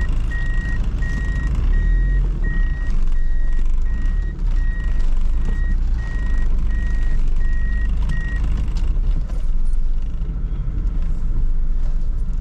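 Reversing beeper giving a steady high beep about twice a second, stopping about eight seconds in, over the low rumble of a car running in the cabin.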